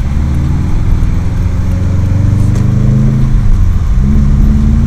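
Subaru WRX STi's turbocharged flat-four engine pulling under throttle, heard from inside the car: the pitch climbs for about three seconds, drops briefly, then rises again.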